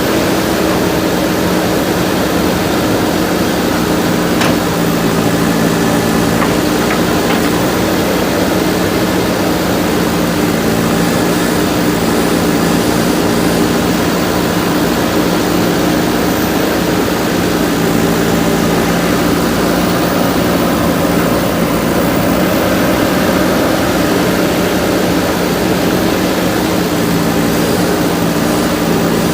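JCB backhoe loader's diesel engine running steadily at an even speed.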